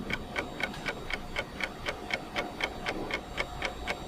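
Ticking clock sound effect, an even tick about four times a second, marking the thinking time for a riddle.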